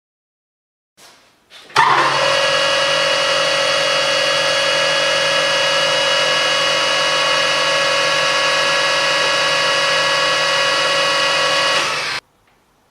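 Metal lathe running with a steady mechanical whine made of several fixed tones. It starts suddenly about two seconds in and stops abruptly near the end.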